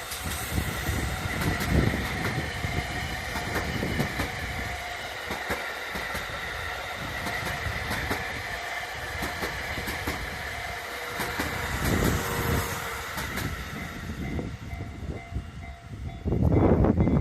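An out-of-service electric train on the Takasaki Line passing over a level crossing. Its wheels knock over the rail joints with a steady high ringing tone, and a louder rumble comes near the end.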